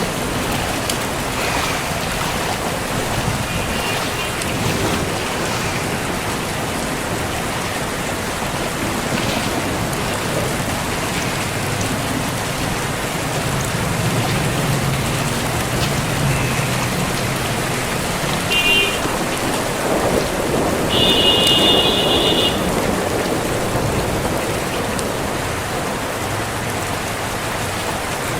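Heavy rain pouring steadily, with a low rumble partway through and two short high-pitched beeps about two-thirds of the way in.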